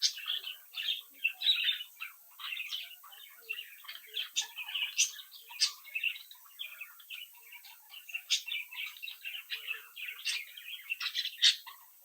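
A flock of budgerigars chirping and warbling continuously, many short overlapping calls.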